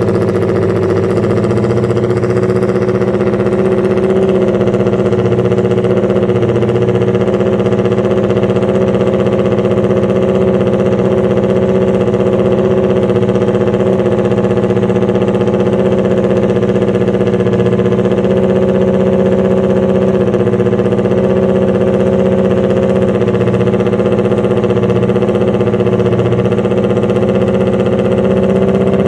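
Honda RC142 racing motorcycle's 125 cc twin-cylinder four-stroke engine running at a steady fast idle, its pitch holding constant without revving.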